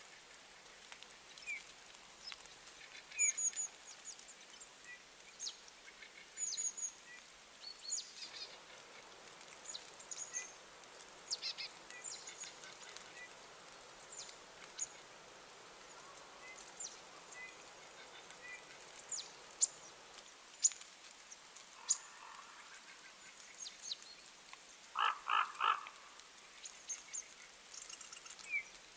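Small birds chirping: short, high, scattered chirps throughout. Near the end comes a quick run of four lower, harsher calls.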